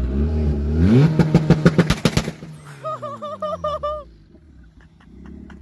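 A car engine revving up as the car accelerates past, with a rapid pulsing exhaust note, then its pitch falling away as it goes by. A short warbling chirp repeats several times near the middle.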